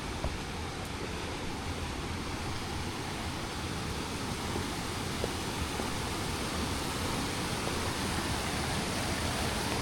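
Steady rush of a mountain river's flowing water, growing slowly louder.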